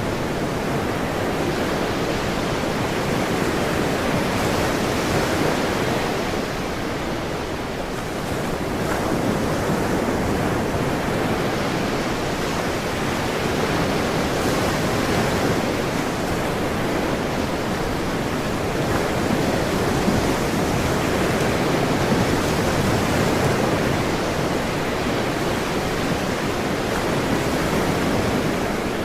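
Ocean surf washing steadily, a continuous rush of water that swells and eases gently, dipping slightly a quarter of the way in.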